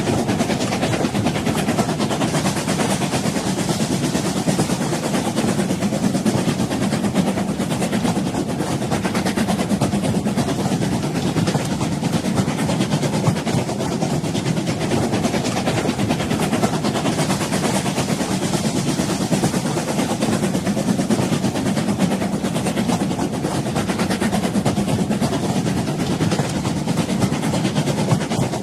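Train running along the track: a steady rumble with constant fine rattling that holds at an even level throughout.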